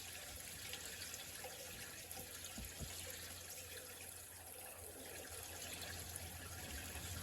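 Faint, steady rain falling and dripping, an even hiss with no thunder.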